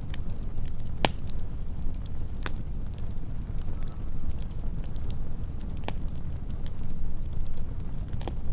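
Campfire burning with a low steady rumble and a few sharp crackling pops, the loudest about a second in. Crickets chirp in short high bursts throughout.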